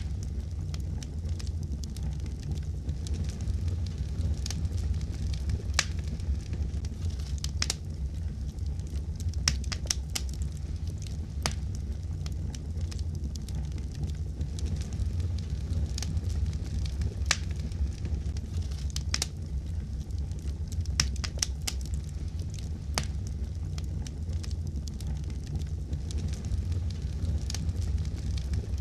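Wood fire crackling: sharp pops and snaps at irregular intervals over a steady low rumble of burning.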